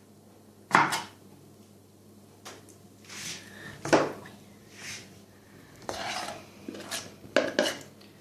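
A kitchen knife chopping on a cutting board, one sharp chop about a second in, followed by scattered scrapes and light clatters of the knife and dishes as chopped vegetables are moved.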